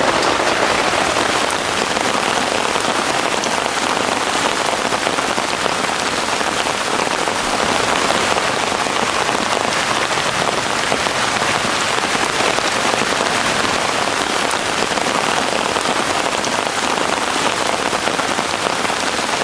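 Heavy rain falling steadily, a dense, even hiss of drops with faint individual ticks.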